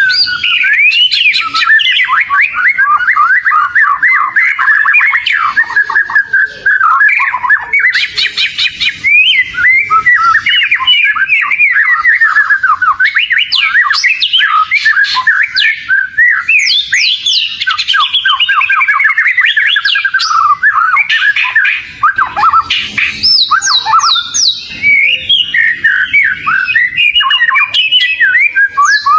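Oriental magpie-robin (kacer) in full, vigorous song: a continuous, loud run of quick whistled notes, sweeping up and down in pitch, with no pauses.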